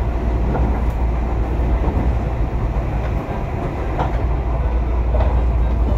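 Tobu Urban Park Line electric commuter train running, heard from inside the passenger car: a steady rumble of wheels on rails with a few faint clicks over the rail joints.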